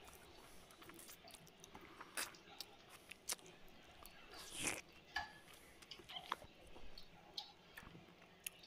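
Close-miked chewing and lip smacks of someone eating rice and curry by hand, with scattered short clicks and one louder smack about four and a half seconds in.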